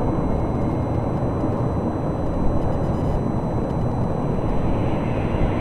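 Basler BT-67's twin Pratt & Whitney Canada PT6A-67R turboprops running loud and steady, with a higher whine swelling near the end.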